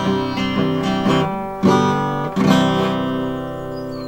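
Acoustic guitar strummed through the closing chords of a sing-along song. The last chord, struck about two and a half seconds in, is left ringing and slowly fading.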